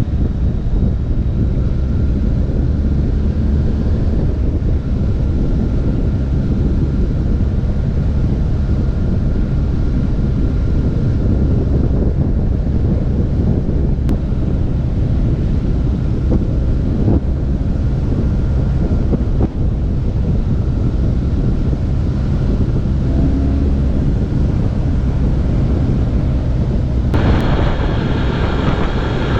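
Wind rushing over the microphone of a motorcycle under way, over a steady low drone. About two seconds before the end, a louder, higher engine sound with several steady tones comes in.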